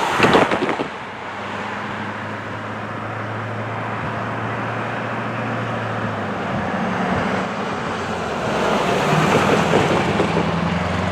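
Steady road traffic noise with a low engine hum, a short loud burst right at the start, and a swell as a vehicle passes about nine seconds in.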